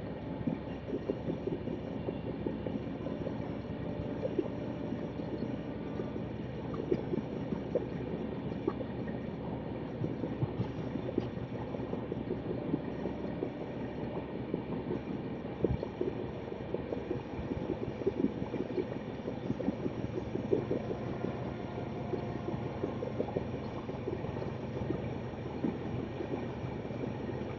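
Running noise of an Indian Railways express train heard from on board: a steady low rumble full of small, irregular rattles and knocks from the wheels on the track and the coach.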